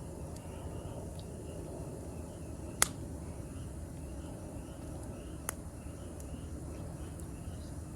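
Campfire burning with a steady low rustle, the wood popping sharply twice: a loud crack about three seconds in and a smaller one about five and a half seconds in. Insects chirp faintly in a steady repeating pattern behind it.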